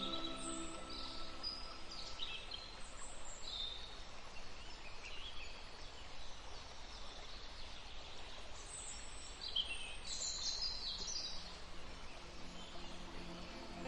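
Several birds chirping in short, high calls over a steady outdoor background hiss, with a busier run of calls about ten seconds in.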